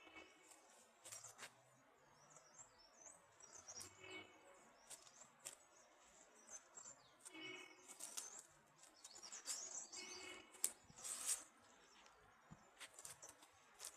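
Small birds chirping and twittering faintly, with one call repeated about every three to four seconds and a few sharp clicks among them.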